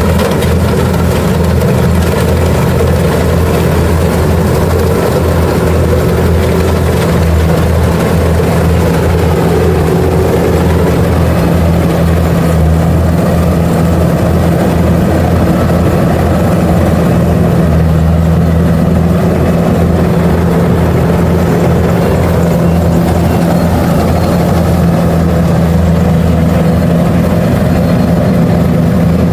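Kubota DC-70 Plus combine harvester's diesel engine running at a steady speed, a loud, even drone.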